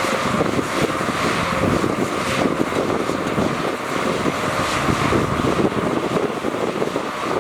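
Heavy diesel earthmoving machinery running steadily, a rough continuous engine noise.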